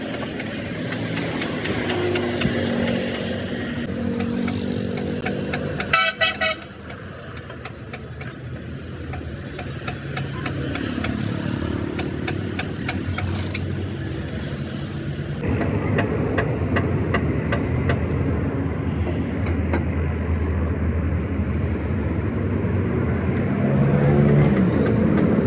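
Road traffic with vehicle engines running, and a short, rapidly pulsing horn blast about six seconds in.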